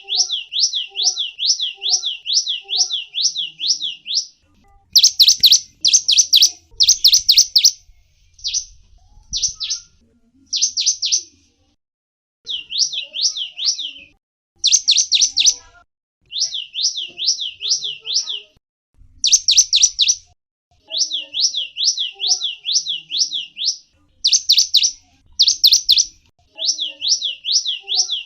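A small songbird calling in quick runs of high, sweeping chirps, two to three notes a second, each run lasting a few seconds with short pauses between, some runs louder and sharper than others.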